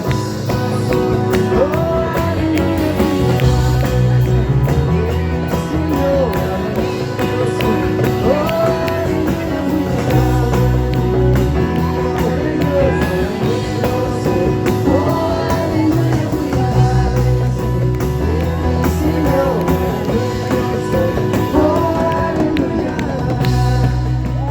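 Live band playing an upbeat worship song, with voices singing the melody over guitar and bass.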